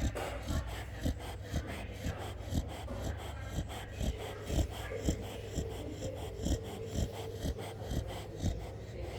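Chow chow dog snoring in deep sleep: short, regular snorting breaths at about two a second.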